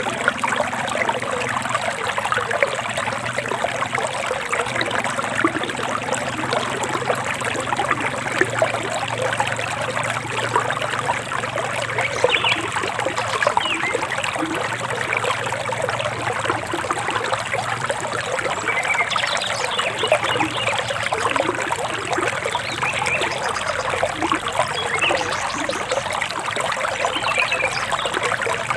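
Forest stream trickling and splashing steadily, with a few short bird chirps over it around the middle and near the end.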